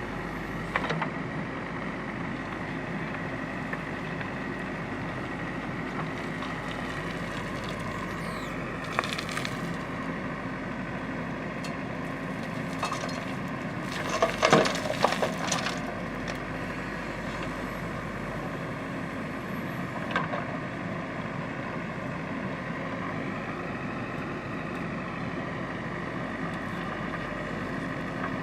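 JCB 3DX backhoe loader's diesel engine running steadily, its pitch rising and falling a little as it works. It is broken by crunching and clanking from the bucket digging and dumping mud, loudest about halfway through.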